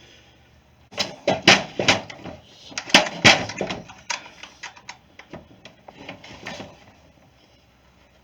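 Hard knocks and clicks of tools and parts being handled on a workbench, loudest in the first few seconds, then thinning to lighter ticks that stop near the end.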